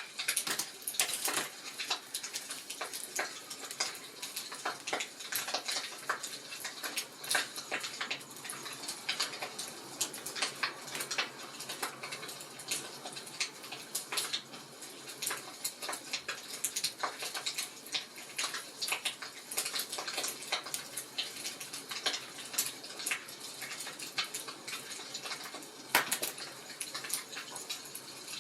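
Wood fire crackling: irregular sharp pops and snaps of varying loudness over a soft steady hiss, with one louder pop near the end.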